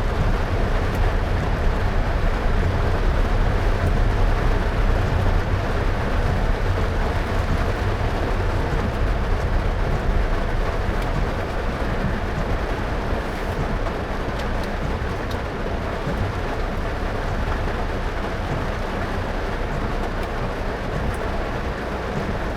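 Car driving in heavy rain: a steady low road rumble with the hiss of tyres on wet road and rain, easing slightly about halfway through.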